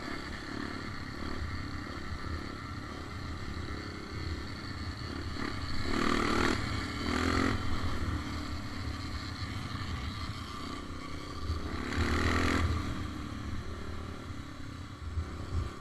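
Motorcycle engine running while riding along a road, under a steady low rumble of wind and road noise. Twice, about six seconds in and again about twelve seconds in, a louder rush of noise swells and fades.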